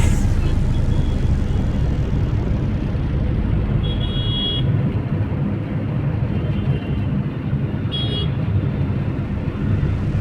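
Taxi driving through city traffic: a steady low rumble of engine and road noise, with two short high-pitched beeps about four seconds apart.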